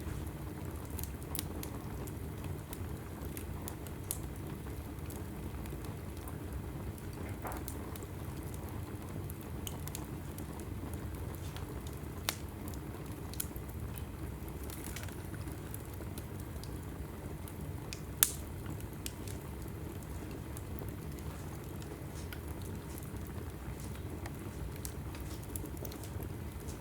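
Wood logs burning in a fireplace: a steady low rush of the flames with scattered crackles and pops. The sharpest snap comes about eighteen seconds in.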